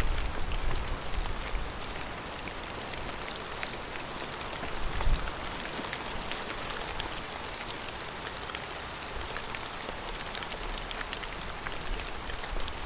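Steady rain falling, with many small drop ticks pattering on surfaces close by. There is a low thud about five seconds in.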